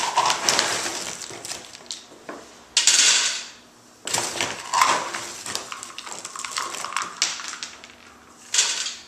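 A dog eating dry food from a bowl: irregular crunching and clattering of kibble and bowl, with two louder rattling bursts, about three seconds in and near the end.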